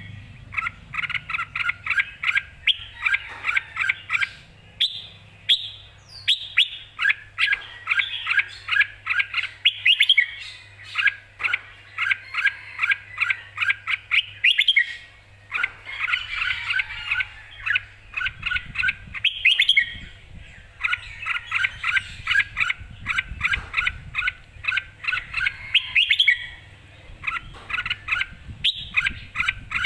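Red-whiskered bulbul singing: quick phrases of bright chirping notes, one after another with short pauses between them.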